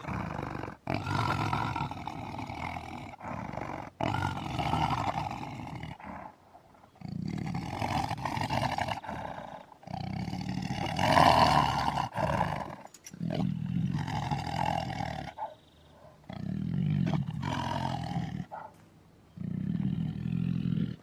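Tiger roaring over and over: a run of long calls, each lasting a second or two, separated by short pauses. The loudest call comes about halfway through.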